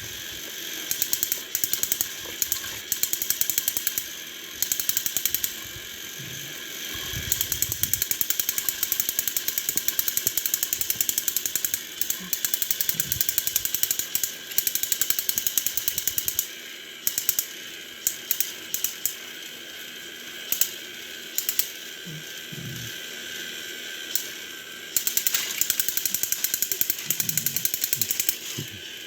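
Battery-powered Trackmaster toy train motors and plastic gearboxes running with a rapid clicking rattle, in long stretches broken by sparser clicks and a few low knocks.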